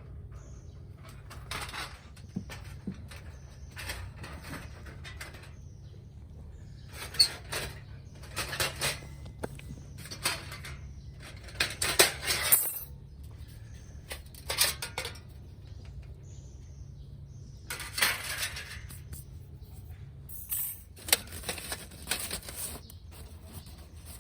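Metal pieces clinking and clattering against each other in irregular clusters of sharp, ringing knocks, several seconds apart.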